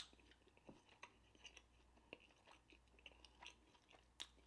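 Faint chewing: scattered soft, wet mouth clicks over near silence.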